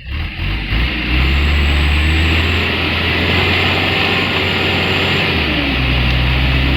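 Mitsubishi Canter truck's diesel engine running hard under load as the truck strains to climb an incline. It holds a steady low note with a brief dip a little after five seconds, over a loud hiss.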